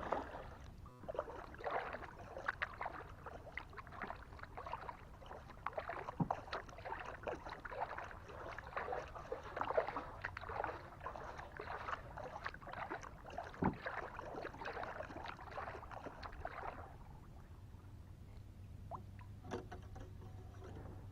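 Kayak paddle strokes dipping and splashing in the creek water, with dripping water and a couple of sharp knocks; the paddling quietens over the last few seconds.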